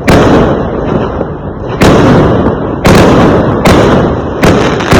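Fireworks going off in quick succession: about six sharp bangs, each trailing off into a rumbling crackle before the next.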